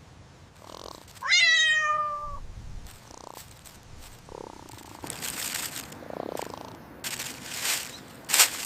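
A cat meows once, a falling call about a second in, followed by fainter scuffling noises and a short sharp noise near the end.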